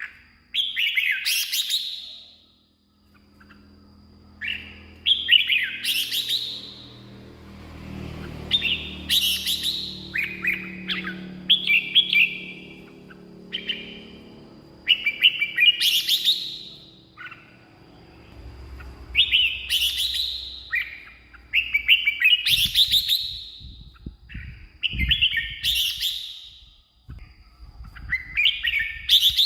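Red-whiskered bulbul singing: short, loud phrases of quick whistled notes, repeated about every three to four seconds with brief pauses between them.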